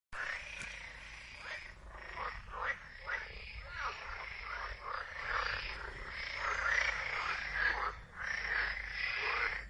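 A chorus of frogs calling, many croaks overlapping with no break, swelling a little louder in the second half.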